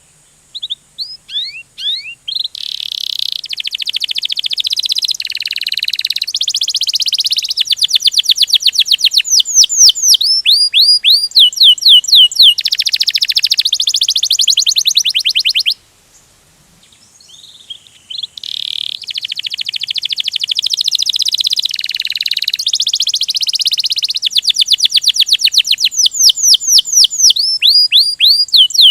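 Domestic canary singing its rolling song (kenari ngerol): long phrases of rapid repeated notes and trills, mixed with fast sweeping whistles. The song comes in two long bouts, broken by a short pause about halfway through.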